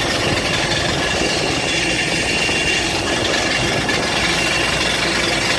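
Steady cabin noise inside a parked Airbus A320: a constant air-conditioning and ventilation hum with a few faint steady whining tones.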